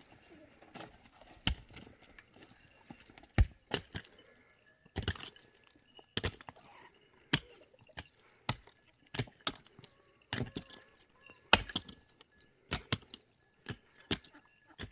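A series of sharp, hard knocks at an uneven pace of roughly one a second, some coming in quick pairs.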